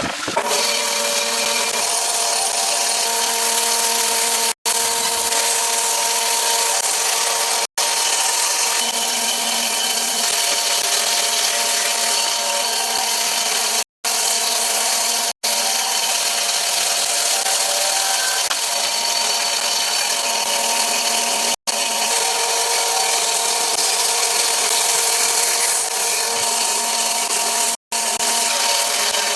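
A power tool runs steadily as it works wood, its steady hum carrying a constant high noise. The sound breaks off for an instant several times, at cuts between clips.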